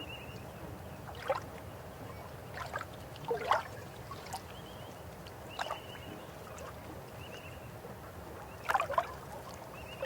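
River water flowing in a steady rush, with irregular gurgles and plops every second or two, the loudest cluster near the end.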